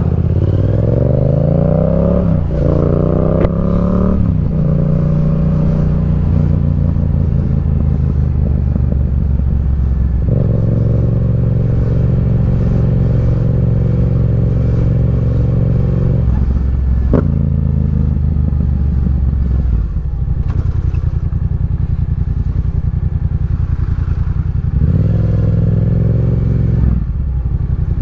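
Motorcycle engine accelerating, its pitch climbing through two gears in quick succession at the start, holding steady while cruising, and climbing again near the end, over constant wind rush.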